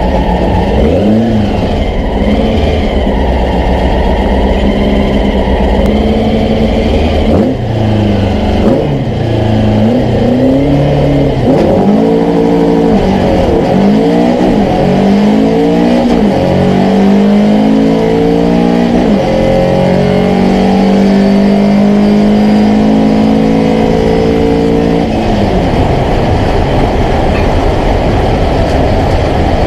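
Volkswagen Beetle drag car's engine revving, its pitch rising and falling over and over, then accelerating hard with the pitch climbing in steps through the gears. The engine note cuts off suddenly about 25 seconds in, when the throttle is lifted.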